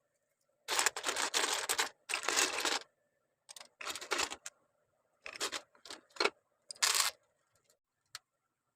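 Plastic Lego pieces clicking and rattling as they are handled and pressed together. The sound comes in several short bursts of rapid clicks, each under a second long, with a single sharp click near the end.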